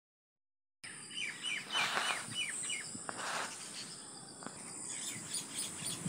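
A small bird giving a quick series of about six short chirps, each sliding downward, over a steady high-pitched whine. Two brief bursts of rustling noise come in between the chirps.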